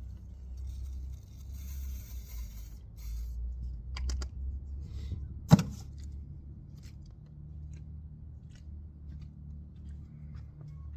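Workshop handling noises: rustling and a few clicks, then one sharp knock about halfway through, the loudest sound, over a low steady hum.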